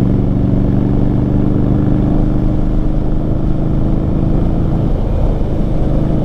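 2018 Indian Scout Bobber's liquid-cooled V-twin running loud through Vance & Hines slash-cut mufflers while being ridden, holding a steady engine note that loses its even pitch about five seconds in.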